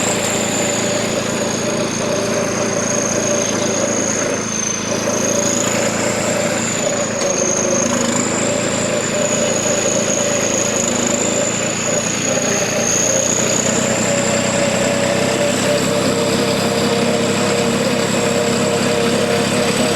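New Holland 3630 tractor's diesel engine running steadily, with the high whistle of its turbocharger on top, drifting slowly up and down in pitch.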